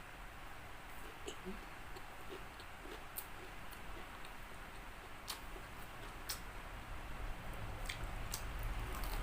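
Close-up chewing of crispy fried chicken, with a handful of sharp, irregular crunchy clicks from the breaded crust and mouth.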